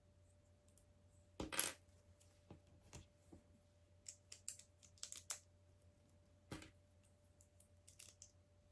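Small plastic LEGO pieces clicking and clattering as they are handled and pressed together, with a louder clatter about one and a half seconds in and a run of light quick clicks a little past the middle.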